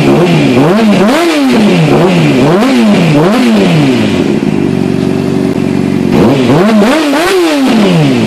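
Honda CBR600RR inline-four engine through a carbon fiber Yoshimura RS-5 race exhaust, revved in quick throttle blips about twice a second. About four seconds in it drops to a steady idle for roughly two seconds, then the blipping starts again.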